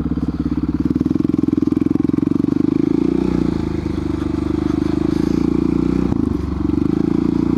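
Dirt bike engine running as it rides a sandy, rocky trail. The engine note eases and picks up a few times as the throttle changes, with a brief dip a little after six seconds in.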